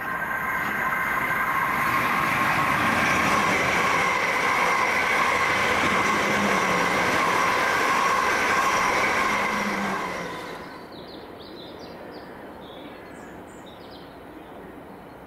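A South Western Railway passenger train passing through at speed: a steady rush of wheels on rail with a steady whine over it, dying away about ten seconds in.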